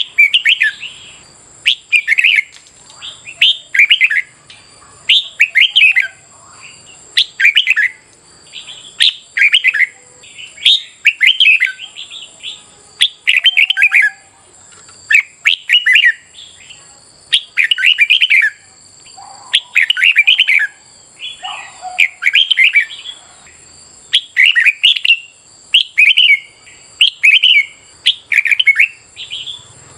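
Red-whiskered bulbul contest song: short, loud, whistled phrases repeated about once a second without pause. A faint steady high-pitched whine runs underneath.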